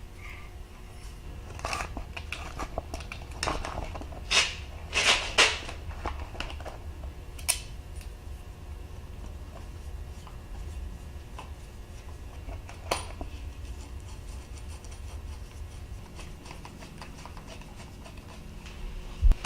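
Scattered scrapes, clicks and light clinks of hands working with tools and way-cover parts, busiest in the first several seconds with a couple of sharp clicks later, over a steady low hum.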